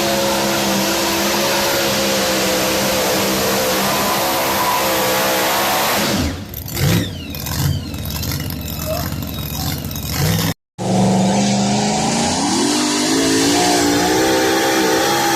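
Two-wheel-drive pulling truck engine held at steady high revs, then let off about six seconds in, with a few short revs as it drops. After a brief break in the sound, an engine revs up again and holds at high revs.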